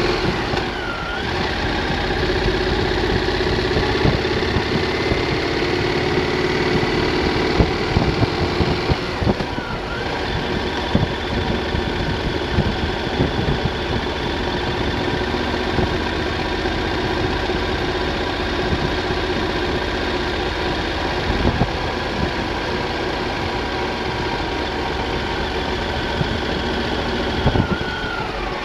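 Triumph Thunderbird motorcycle engine running on the move, a steady engine note whose pitch dips and climbs again three times: about a second in, near ten seconds and near the end.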